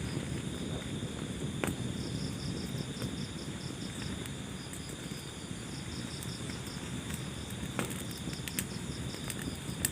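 Wood fire burning in a fireplace, with a low steady rumble and a few sharp crackles and pops, one about two seconds in and another near the end. Over it runs a high, steady pulsing chirp.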